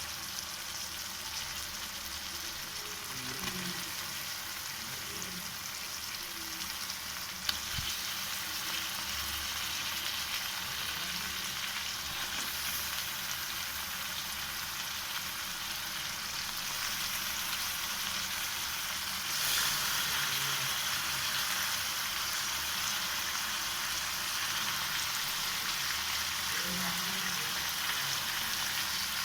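Food frying in hot oil in a pan, sizzling steadily, with one sharp clack about seven and a half seconds in. The sizzle grows louder about twenty seconds in.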